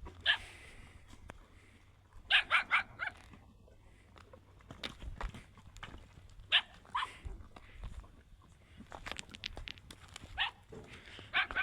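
An animal's short, sharp calls in quick bursts, four in a row about two seconds in and more scattered through, with brief knocks between.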